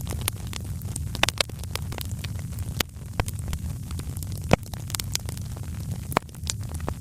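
Wood fire crackling in a fireplace: irregular sharp pops and snaps over a steady low rumble of the flames, with one louder pop about four and a half seconds in.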